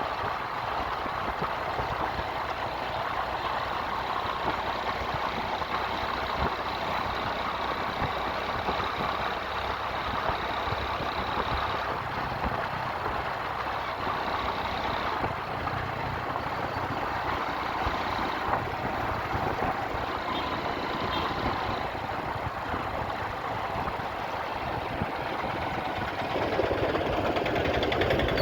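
Motorcycle engine running steadily while riding, with road noise. The sound gets louder near the end.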